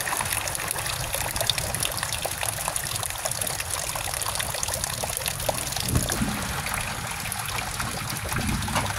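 Heavy rain splashing into a tarp-lined pool of water, a dense steady patter of drops, with a stream of runoff from a roof edge pouring into the water. A dull thump about six seconds in.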